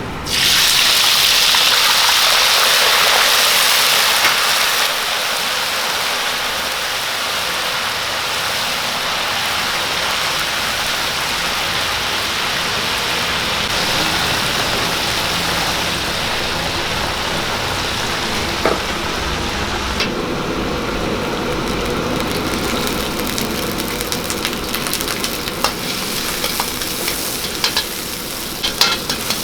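Food sizzling in hot oil, starting suddenly at its loudest and settling after a few seconds into a steady sizzle, with a few light clicks near the end.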